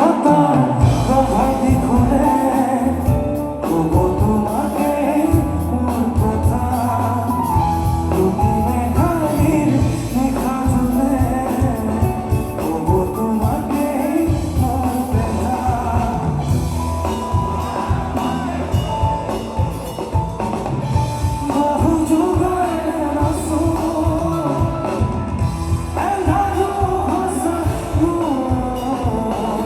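Live band music: a singer's voice carrying the melody over drum kit and band accompaniment.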